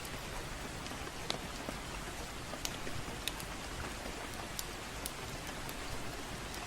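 Steady gentle rain with a crackling fireplace: an even rain hiss with scattered sharp pops and crackles at irregular intervals.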